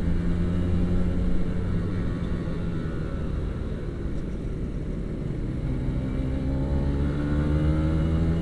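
Kawasaki Ninja RR 150's single-cylinder two-stroke engine running under way, its note holding steady, easing off a little, then rising in pitch as the bike accelerates for the last third, over low rumble.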